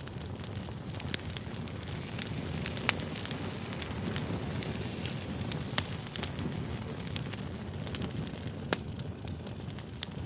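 Firewood burning: a steady soft hiss with frequent, irregular sharp crackles and pops.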